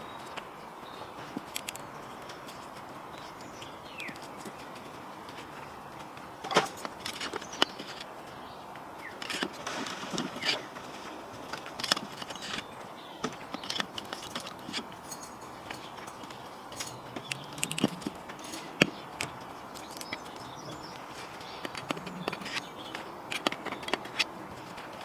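Irregular clicks and knocks of hand tools and brake parts being handled, over a steady background hiss.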